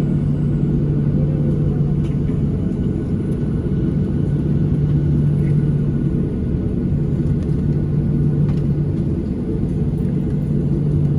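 Steady low rumble and hum inside the cabin of a Boeing 737-700 on the ground before takeoff, its engines running at idle.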